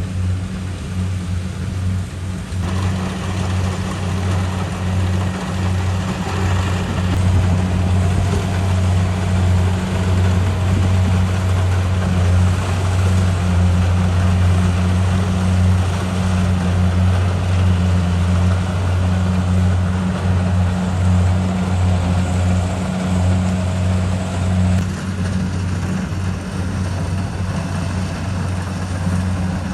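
Kubota DC70 Pro combine harvester running with a steady low engine drone, with a busier, louder clatter of the machine working joining in about three seconds in and easing off near the end.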